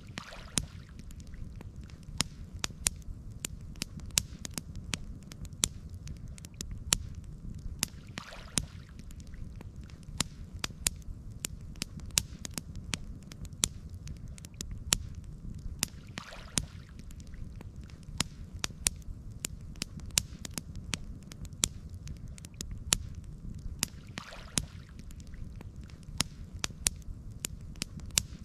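Campfire crackling, with frequent sharp pops over a steady low rumble. A faint soft swish returns about every eight seconds.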